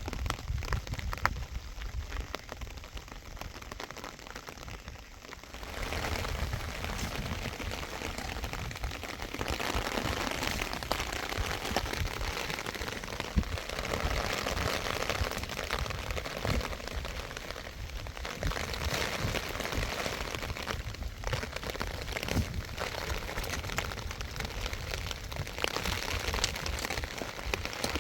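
Rain falling steadily, a continuous patter of drops that grows louder about six seconds in.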